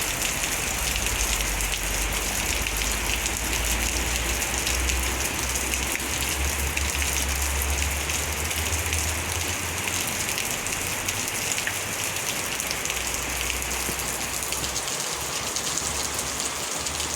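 Heavy rain falling steadily in a thunderstorm, an even hiss of drops, with a low rumble underneath through much of the first half.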